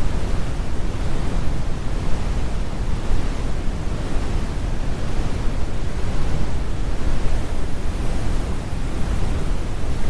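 Synthetic brown noise: a steady, deep rumbling hiss, heaviest in the low end, with the high frequencies rolled off.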